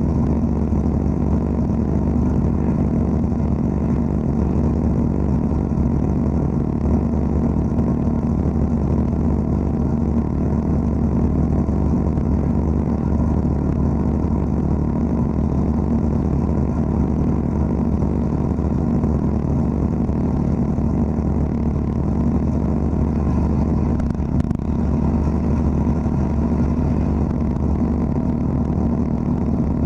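Wet abrasive blasting (aquablasting) machine running steadily: a constant low mechanical drone with a hiss over it, unchanging throughout.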